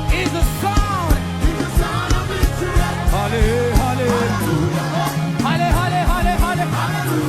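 Upbeat African gospel praise music: a sung melody over a steady drum beat and bass line, the bass dropping out briefly about five seconds in.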